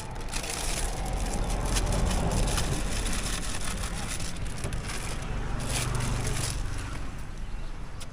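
A motor vehicle passing on the road: a low engine rumble with tyre noise that builds and then fades away.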